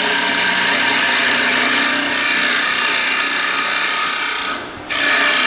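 Wood lathe spinning a bowl while a carbide 90-degree detailer hollows out its inside: a steady scraping cut over the lathe's hum. The cut breaks off for a moment about four and a half seconds in, then resumes.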